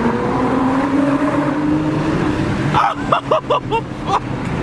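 Performance car engine pulling hard, its note rising steadily for nearly three seconds, then a quick run of about five short rising-and-falling engine notes with sharp cracks between them.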